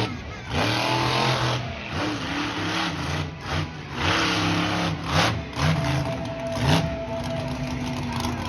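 Monster truck engine revving hard in repeated throttle bursts, its pitch rising and falling again and again.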